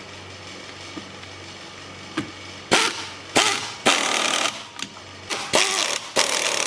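Power tool run in short bursts, five or six of about half a second each starting about three seconds in, over a steady low hum.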